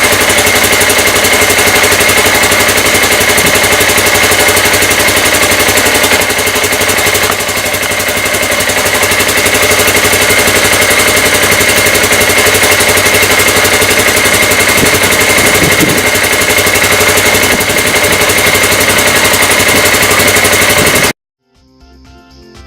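Polaris RZR 570's single-cylinder engine idling steadily while warming up after a cold start, a steady whine over its fast even firing beat. It cuts off abruptly near the end, and keyboard music follows.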